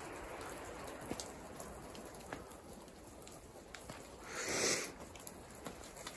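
Light rain falling: a soft, steady hiss with scattered faint ticks of drops, and a brief louder rush of noise a little past four seconds in.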